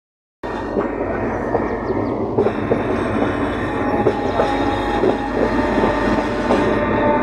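Dhauli Express passenger coach running on the rails, a steady rumble with the wheels clicking over rail joints and points. A thin wheel squeal comes in around the middle. The sound begins after a brief dead gap right at the start.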